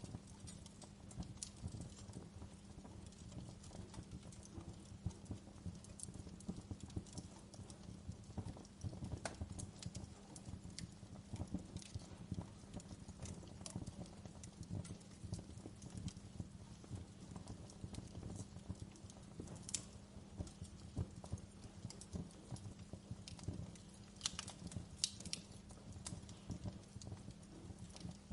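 Wood fire crackling: a dense, irregular run of small pops and ticks over a low steady rumble, with a few sharper snaps around two-thirds of the way through.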